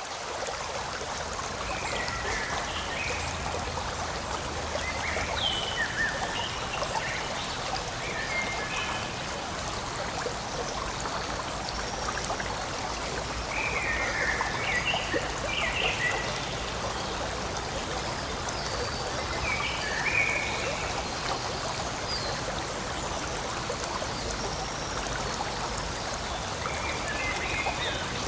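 A forest stream flowing and trickling steadily, with small birds chirping in short bursts of song several times.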